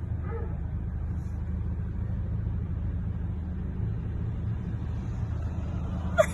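Steady low drone of a car's engine and road noise heard inside the cabin. A single short, sharp sound cuts in near the end.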